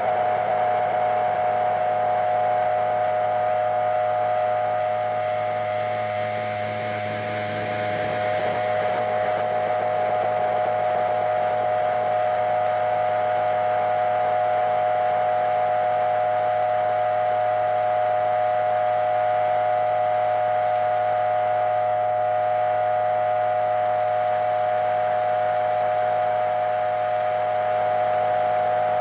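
Power electronics harsh-noise drone: a steady, layered mid-range tone over a low hum and a hiss, almost unchanging. It dips slightly in loudness about seven seconds in.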